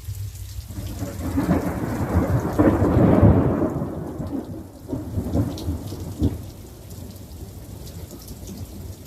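A roll of thunder rumbling, swelling to a peak about three seconds in, then fading with a few sharper cracks, over steady rain.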